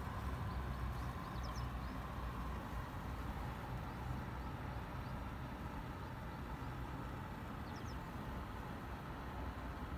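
Steady low outdoor background rumble, with two faint high chirps, one shortly after the start and one near the end.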